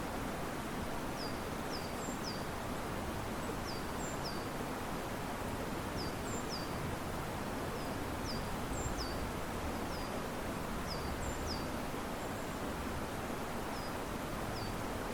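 Steady rush of river water and wind moving through riverside trees, with a small bird repeatedly giving short, high, falling chirps, about one or two a second.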